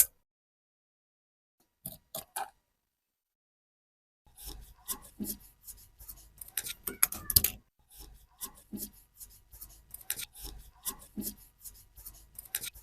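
Hand-tool work on a rusty hammer: a few isolated clicks, then from about four seconds in a quick, irregular run of short scraping strokes, several a second.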